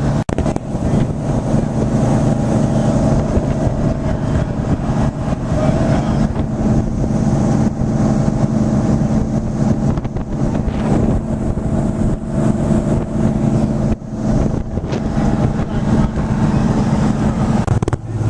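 Passenger boat's engine running steadily at speed, a constant multi-tone drone with wind rushing over the microphone. Near the end the pitch of the drone drops.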